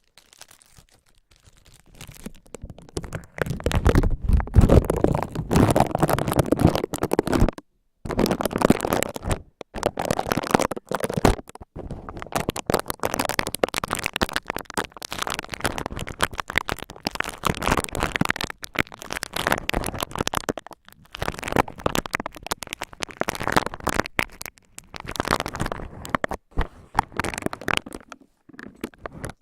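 Cotton rubbed and crinkled roughly right against the microphone: dense scratchy crackling with a low rumble. It stops abruptly and restarts several times.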